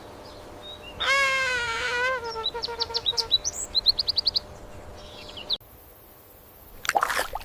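A bird calling: one wavering call of about a second, then a quick run of short, high chirps.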